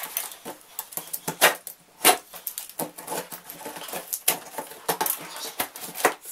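Shipping box and its packing being handled and opened, an irregular run of clicks, knocks and crackles, with two louder knocks about one and a half and two seconds in.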